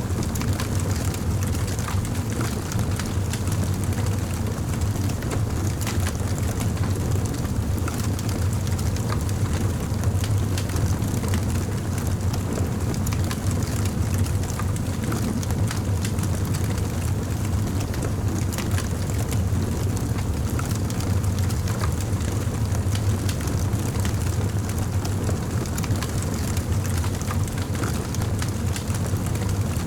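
Campfire burning, with a steady low rumble and scattered crackles and pops of the burning wood.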